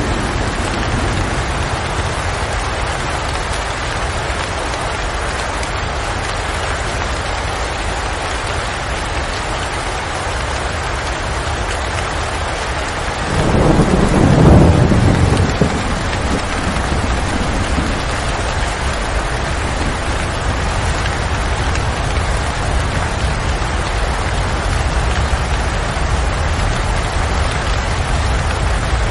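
Steady rain falling, with a low rumble of thunder swelling and fading over about two seconds halfway through.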